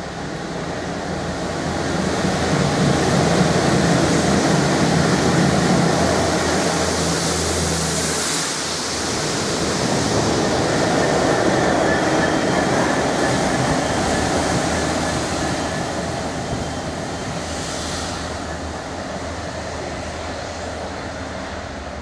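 GBRf Class 66 diesel locomotive passing close through a station at speed, its engine loudest about two to eight seconds in. The train rolls by after it with a steady rail noise that slowly fades toward the end.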